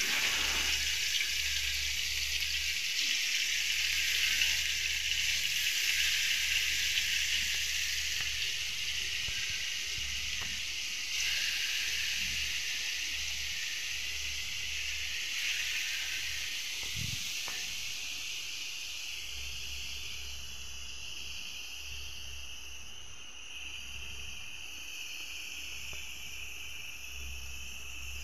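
Paneer cubes shallow-frying in hot ghee on a flat iron griddle: a steady sizzle that slowly grows quieter toward the end.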